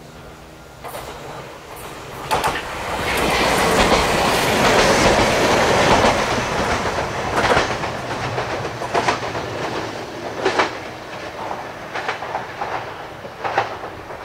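Yoro Railway electric train passing on the Ibi Line. Its running noise swells to a peak as it approaches, then its wheels clack over the rail joints in a string of sharp clicks as it goes by, and the noise fades.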